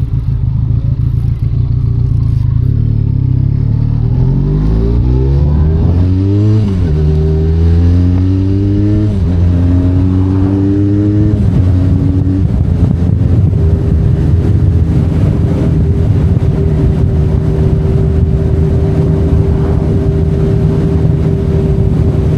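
Benelli Leoncino 500 Trail's parallel-twin engine pulling hard through the gears: the pitch climbs and drops back three times at the upshifts, then settles into a steady cruise.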